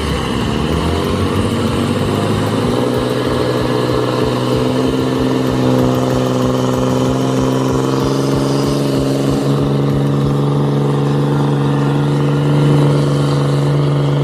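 A heavy vehicle's engine running hard, its pitch climbing over the first couple of seconds and then holding steady at high revs.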